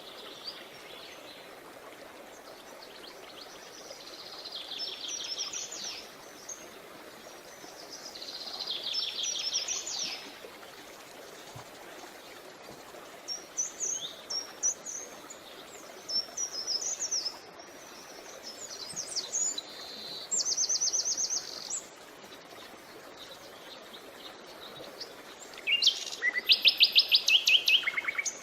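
Songbirds singing in short phrases of rapid repeated high notes over a steady murmur of flowing creek water. The loudest trills come near the end.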